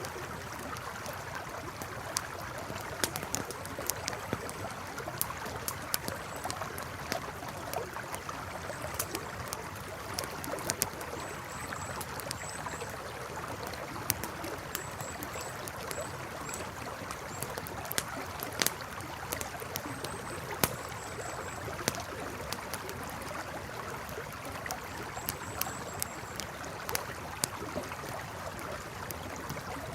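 Campfire crackling with frequent sharp pops over the steady rush of a flowing river. Short runs of three or four faint high chirps come and go every few seconds.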